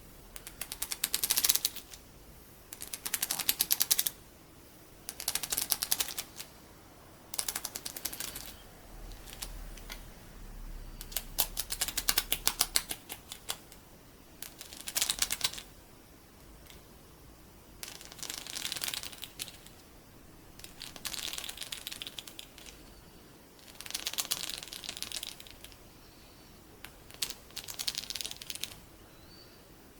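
Loose colorful sticky beads scratched and tapped with metal fingertips, giving about a dozen bursts of rapid clicking, each one to two seconds long, roughly every two seconds.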